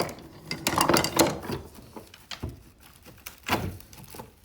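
Shed antlers clacking and scraping against one another as they are rummaged through, with a scatter of irregular knocks and some rustling; the loudest clatter comes about a second in.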